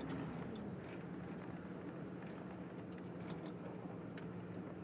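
Steady low hum of a car's engine and road noise heard inside the cabin while driving, with faint scattered clicks.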